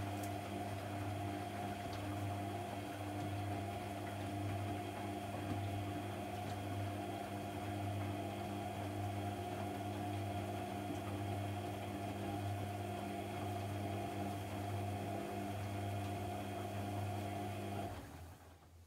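AEG Lavamat 1400 washing machine running with a steady hum, which cuts off suddenly near the end.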